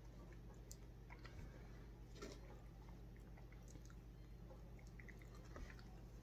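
Faint chewing of a donut, with a few small mouth clicks scattered through it over a low steady hum.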